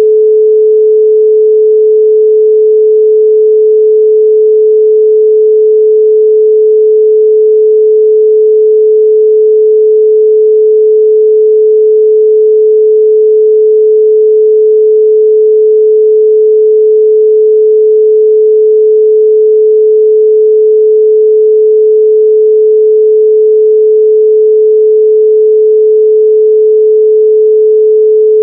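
A 432 Hz pure sine tone, steady and loud, with no change in pitch or level.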